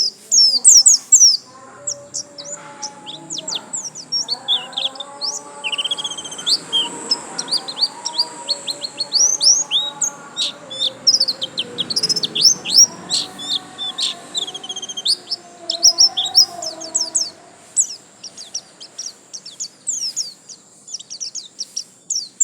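White-eye (pleci, Zosterops) singing a long, unbroken run of quick, high chirps and trills.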